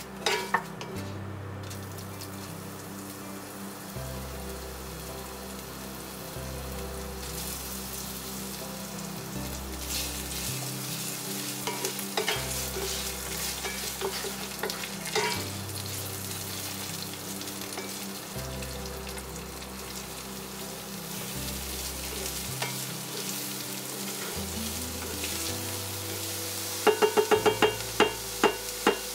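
Curry leaves, whole spices and sliced onions sizzling in hot oil in a cast-iron pot, stirred with a wooden spatula that clicks against the pot. Near the end comes a quick run of sharp clicks. Background music with a low bass line runs underneath.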